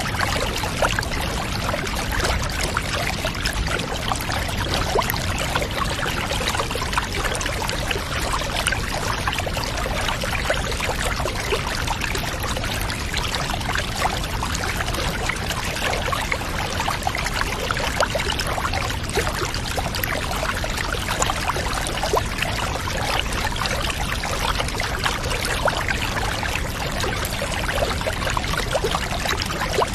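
Steady running and splashing water, an even bath-water ambience with fine trickling detail.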